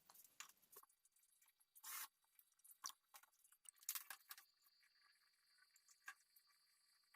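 Faint, scattered clicks, taps and short scrapes of handwork, with a brief rustle about two seconds in and a small cluster of clicks near the middle.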